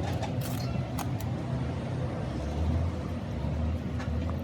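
A motor vehicle engine running steadily with a low rumble, with a few sharp clicks and taps in the first second or so.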